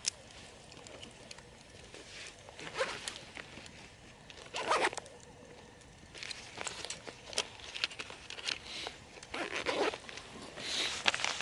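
A zipper pulled in several short strokes, with sharp clicks between them.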